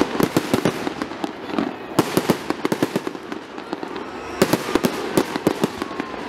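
Aerial fireworks shells bursting: a rapid run of sharp bangs and crackling pops comes in clusters, at the start, about two seconds in, and again from about four and a half seconds in.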